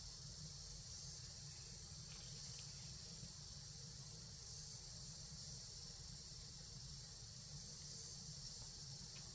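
Faint, steady high-pitched hiss over a low rumble, with a few faint ticks.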